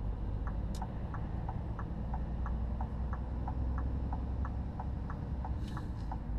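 Car indicator clicking steadily in an alternating tick-tock, about three clicks a second, over the low rumble of the engine and road inside the cabin. A single sharp click comes about three quarters of a second in, and a brief hiss near the end.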